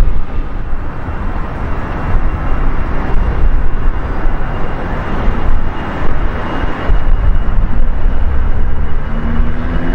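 Jet airliner engines close by: a loud, steady rumble with a thin, steady high whine above it.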